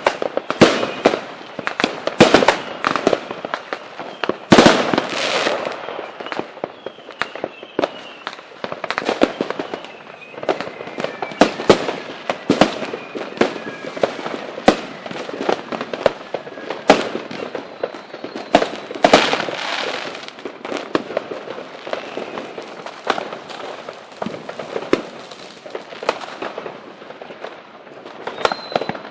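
Fireworks display: a dense, irregular barrage of sharp bangs and cracks from bursting aerial shells, with a few faint falling whistles.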